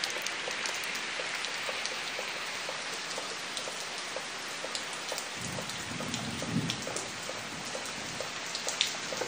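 Steady rain falling on wet brick paving and tree leaves: a constant hiss with many close drops ticking through it.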